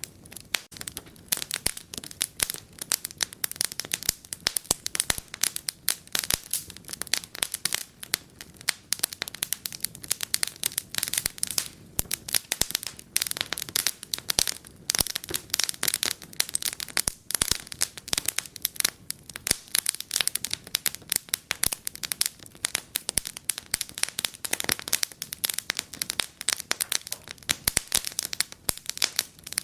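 Wood fire crackling in a fireplace: dense, irregular pops and snaps with no break, some louder than the rest.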